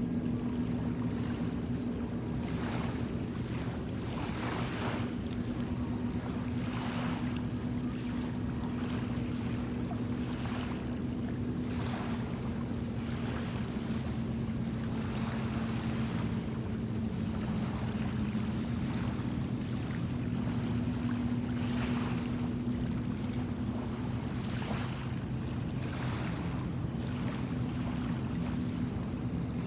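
Small bay waves washing and splashing against the shore again and again, every second or two, over a steady low engine drone that holds one pitch.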